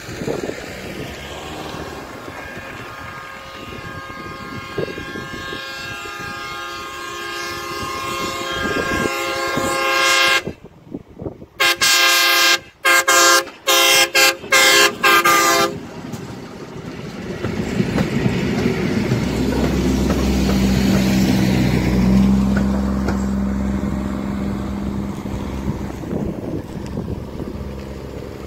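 Diesel railcar sounding its multi-note horn as it nears a level crossing: a long blast that grows louder, then after a brief break a string of short toots. Its diesel engine then runs loud and low as it passes close by, fading near the end.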